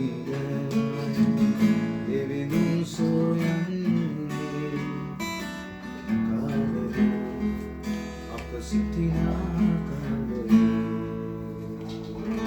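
Instrumental music led by an acoustic guitar, with a chord held and fading near the end.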